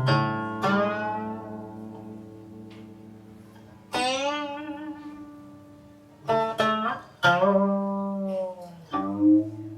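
Guqin (seven-string Chinese zither) played solo, slowly and softly: single plucked notes and small clusters ring out and fade, spaced a second or more apart. Several notes bend downward or waver in pitch as the left hand slides along the string after the pluck, most clearly on the note about four seconds in.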